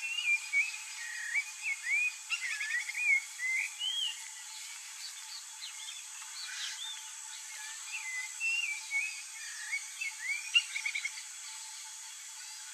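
Small birds calling in short whistled chirps that sweep up and down, in one flurry at the start and another a little past the middle, over a steady high hiss.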